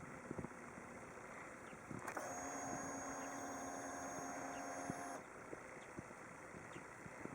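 Faint steady electric whine lasting about three seconds, starting and stopping abruptly: a Yamaha WR250R's fuel pump priming when the ignition is switched on before starting. A few light clicks come before and after it.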